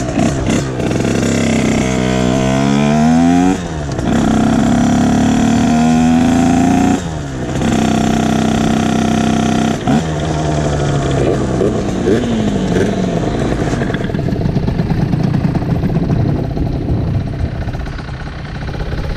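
Two-stroke Beta RR 50 dirt bike, tuned to 75 cc with a 2Win expansion exhaust, accelerating hard: the revs climb, drop back at two gear changes a few seconds apart and hold high. From about two-thirds of the way in, the engine eases off and runs lower and rougher as the bike slows.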